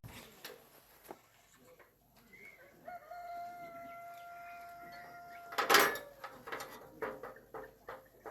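A rooster crows one long held call. Just after it ends comes a sharp, loud clatter, then several lighter knocks.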